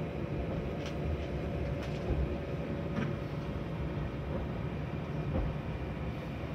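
Inside an electric commuter train moving slowly along a station platform: a steady low rumble of the running train with a faint steady hum, and a few short faint squeaks in the first three seconds.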